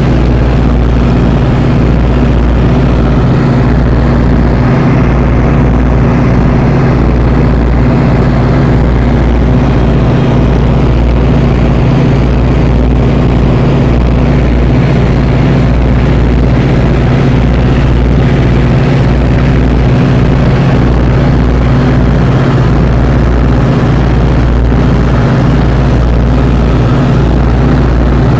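Tri-motor airplane's piston engines and propellers running steadily, a loud, constant drone with a strong low hum.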